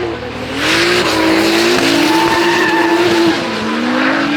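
Drift cars at full throttle, engines revving high and rising and falling in pitch as the throttle is worked, over tyres skidding and squealing sideways.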